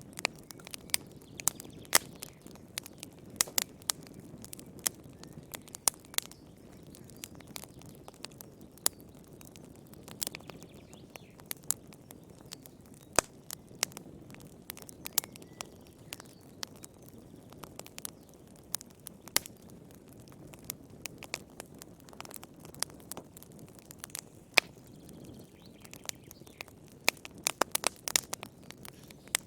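Wood fire in a fireplace crackling, with irregular sharp pops over a soft low hiss of the flames and a quick run of pops near the end.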